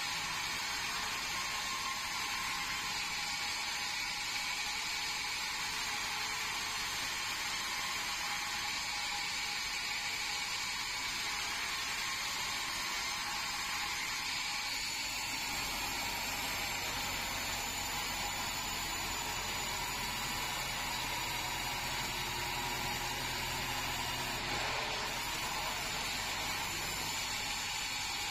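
Band sawmill running steadily, likely sawing red meranti timber; about halfway through a low hum joins the steady machine noise.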